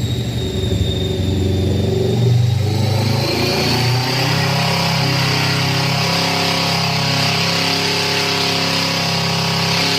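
Kawasaki Ninja 650's parallel-twin engine running on a chassis dyno through an aftermarket titanium exhaust. Its note shifts over the first few seconds, then holds steady under a high whine.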